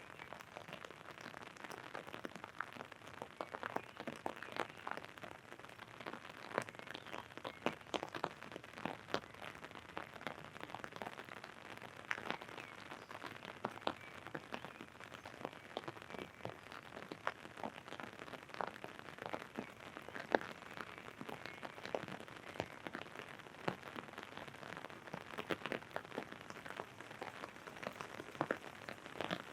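Rain falling on an umbrella overhead: many irregular sharp taps of drops on the canopy over a steady hiss of rain.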